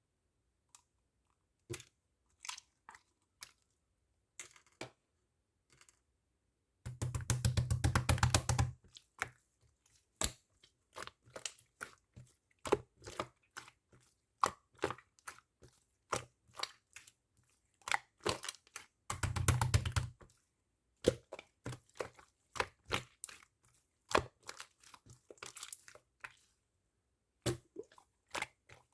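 Marbling slime being squished and poked by hand: scattered sticky pops and crackles, with two longer runs of rapid popping, about seven and nineteen seconds in.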